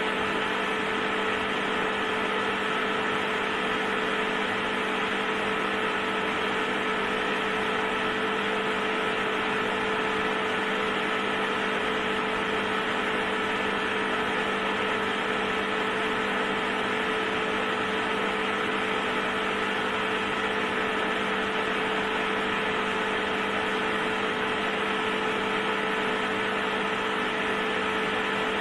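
Electric heater running with a steady, unchanging hum made of several fixed tones.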